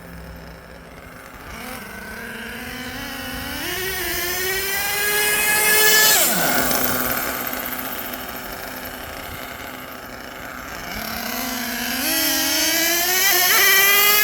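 Twin LRP .32 big-block nitro engines in an HPI Savage XL RC monster truck accelerating hard twice. Each time the screaming engine note climbs in pitch over several seconds, then falls away quickly as the throttle comes off.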